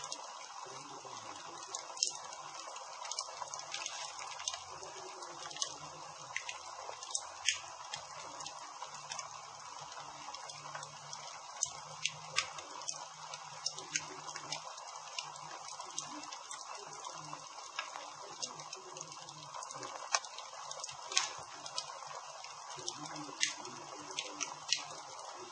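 Campfire burning, a steady hiss with irregular sharp crackles and pops from the burning wood.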